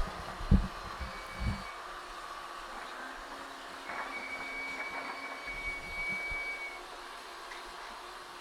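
John Deere 130 excavator running while its tracks walk over spread rock, with two low thuds in the first two seconds and a thin, steady squeal for about three seconds in the middle.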